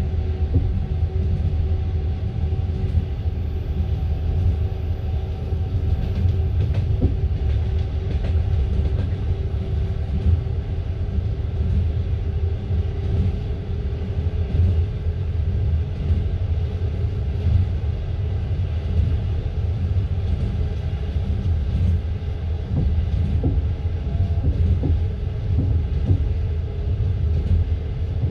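Passenger train coach running at speed, heard from inside the coach: a steady heavy rumble from the wheels on the rails, with scattered knocks and a faint steady hum.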